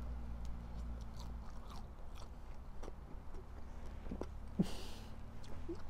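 Biting and chewing a skewer-grilled oshorokoma (Dolly Varden char), heard close: small wet mouth clicks over a low steady rumble, with a short hiss about three-quarters of the way through.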